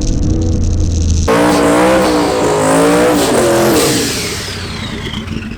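Twin-turbo drag car's engine running hard at high revs, cutting in suddenly about a second in with a wavering pitch, then dying away over the last second or so.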